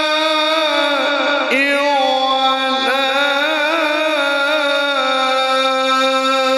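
Male Qur'an reciter holding one long, unbroken note in melodic tajwid recitation, with the pitch winding through ornamented turns along the way. The voice is loud and carries high, bright overtones.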